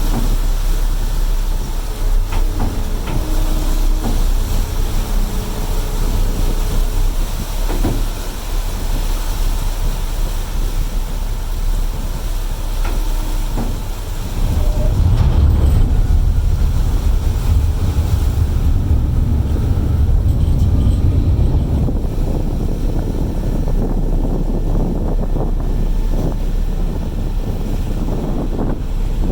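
Steady low rumble of a ferry's engines with wind buffeting the microphone, swelling louder about halfway through and easing off again.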